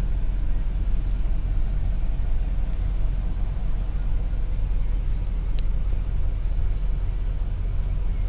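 An engine running steadily with a low rumble, with one brief sharp click a little past halfway.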